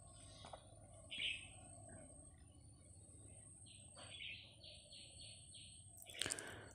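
Faint bird chirps: one short note about a second in, then a quick run of five or six chirps near the middle. A spatula knocks against the wok near the end.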